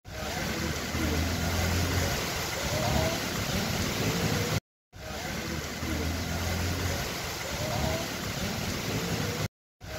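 Heavy rain pouring down on a road, a steady hiss with a low rumble, while traffic passes on the wet surface. The sound cuts out completely twice for a moment, a little before halfway and near the end.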